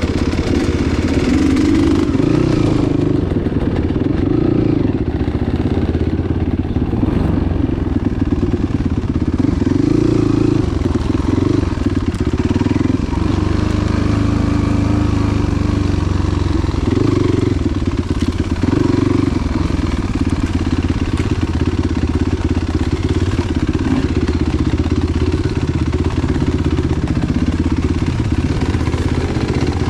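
Enduro motorcycle engine running continuously, its revs rising and falling as the bike is ridden.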